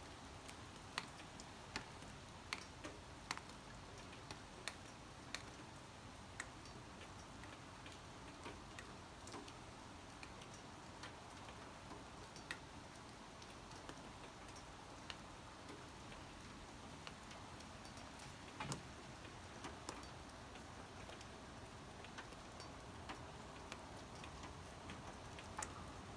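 Light rain: a faint steady hiss with irregular, sharp drops tapping on a hard surface, coming every second or so at first and more sparsely later.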